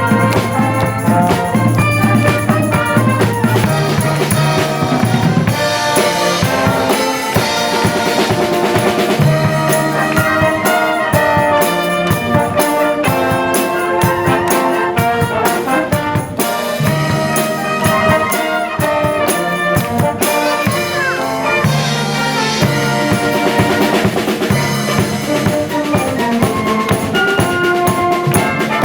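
Brass band with drum kit playing an up-tempo piece, trumpets and trombones carrying the melody over a steady beat.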